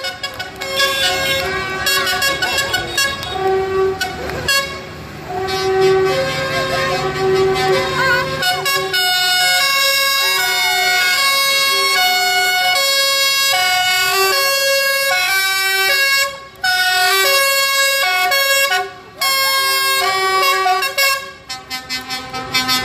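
A loud tune played from a passing vehicle: held notes one after another with short breaks between phrases, and an engine running low underneath for the first several seconds.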